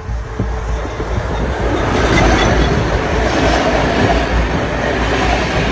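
Train passing close by on the tracks: a rushing, rumbling noise of wheels on rails that builds over the first two seconds and then stays loud.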